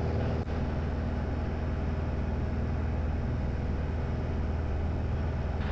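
Light aircraft's piston engine and propeller droning steadily in the cabin during a descent, a constant low hum with a layer of noise over it.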